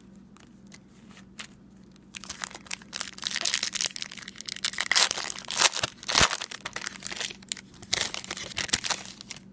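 Plastic wrapper of a pack of baseball trading cards being torn open and crinkled. A few faint clicks at first, then loud, dense crackling from about two seconds in.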